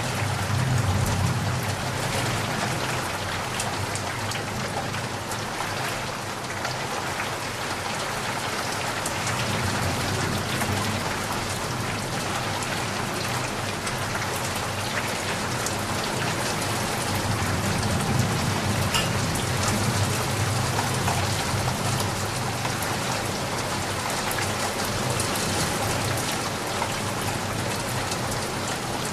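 Steady rain, with many separate drops ticking on a surface over a low rumble that swells and fades twice.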